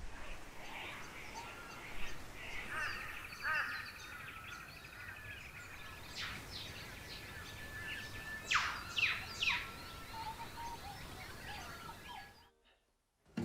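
Wild birds calling: assorted chirps, a rattling trill a couple of seconds in, and a few quick, steeply falling whistles about halfway through. The sound cuts to dead silence just before the end.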